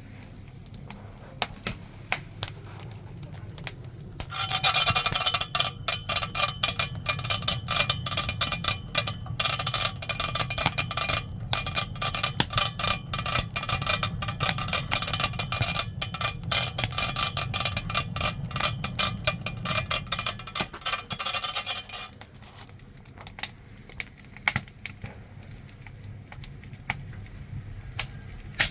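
Hand-cranked blower (pungno) being turned for a fire, a dense rattling whir with fast clicking that starts about four seconds in and stops abruptly near the end, with faint scattered clicks around it.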